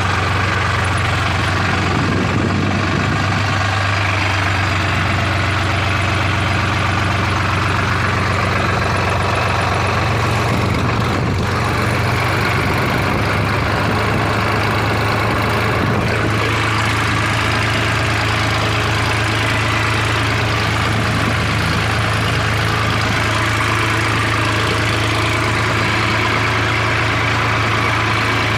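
Tractor engine idling with a steady low hum.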